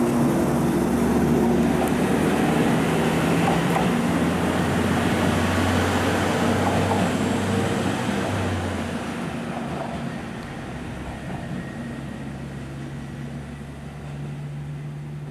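KiHa 25 diesel railcar pulling away, its diesel engine running steadily under power for about the first nine seconds, then fading as the train moves off.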